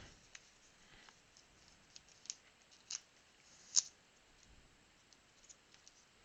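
Faint, scattered clicks and light snaps of trading cards being handled, flipped and slid off one another one by one, with the sharpest snap about four seconds in.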